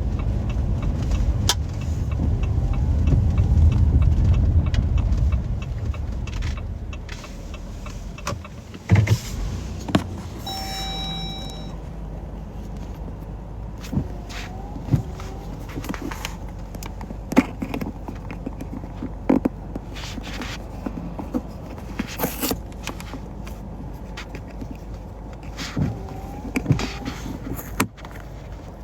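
Car cabin noise over a bumpy road: a heavy low rumble that eases off after about six seconds, then quieter running with scattered clicks and knocks and a short electronic beep about ten seconds in.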